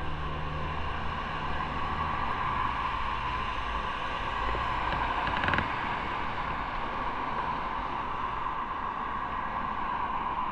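Motorcycle under way: steady wind and road noise with the engine running underneath, its low hum plainest in the first couple of seconds, and a brief knock about five and a half seconds in.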